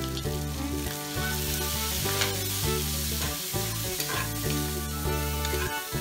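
Diced potatoes and meat sizzling in oil in a metal wok, with a metal spatula scraping and tossing them against the pan, over background music.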